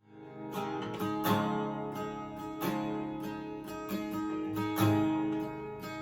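Acoustic guitar strumming chords in a steady rhythm, fading in at the start.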